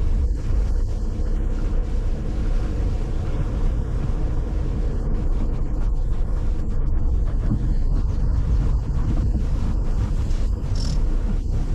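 Steady low rumble of a vehicle being driven, with road and engine noise and wind buffeting the microphone.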